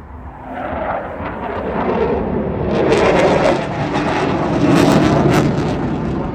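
Eurofighter Typhoon jet fighter's twin EJ200 turbofans: the jet's roar building to a loud peak with a crackle as it passes, then easing off.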